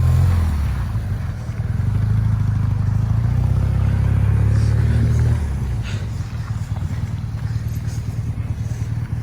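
Motorcycle engine running with a steady low rumble, louder for a few seconds, then easing back about five seconds in.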